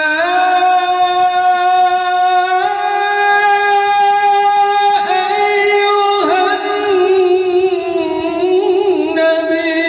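A solo voice singing a long, held, ornamented note in a sholawat, an Islamic devotional song. The pitch steps up twice, slides about halfway through and wavers near the end.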